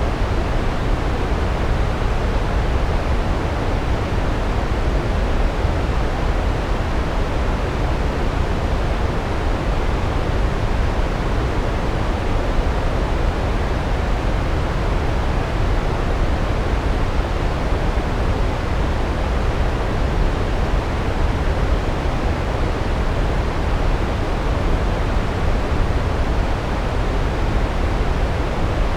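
Large waterfall: a steady, unbroken rush of falling water, heaviest in the low rumble and thinning toward the top.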